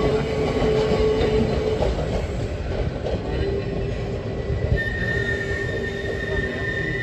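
Manx Electric Railway tram running on its rails: a steady rumble with the wheels squealing in held tones, a higher squeal coming in about five seconds in.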